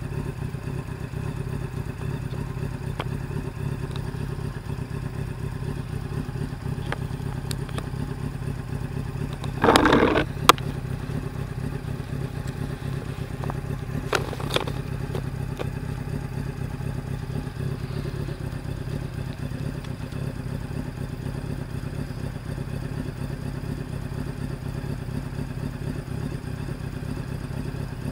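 1999 Honda CBR900RR Fireblade inline-four engine running at a steady idle. A brief louder noise with a sharp click comes about ten seconds in, and a smaller one a few seconds later.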